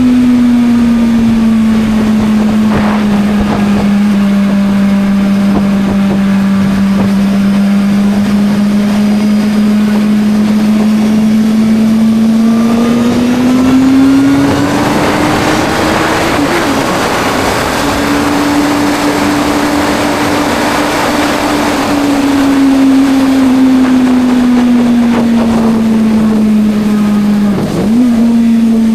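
Suzuki GSR 600's inline-four engine pulling the motorcycle along at a steady note. The note climbs about halfway through, breaks off briefly, then holds, eases down and picks up again near the end, with wind rushing over the microphone in the middle.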